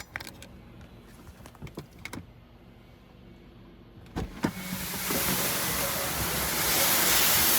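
Touchless automatic car wash starting its cycle, heard from inside the car: a few faint clicks and knocks, then two sharper knocks about four seconds in. Right after them, a hiss of spray hitting the car sets in and grows steadily louder as the pre-soak is applied.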